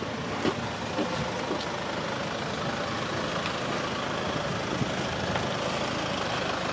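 Steady street noise in the rain: a vehicle engine running, with rain falling and scattered drop ticks.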